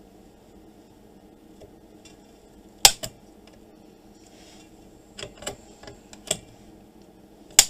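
A few sharp clicks and light knocks over a low steady background hum: a loud click about three seconds in, a quick cluster a couple of seconds later, and another loud click at the very end, the kind made by flipping a switch and handling equipment on a workbench.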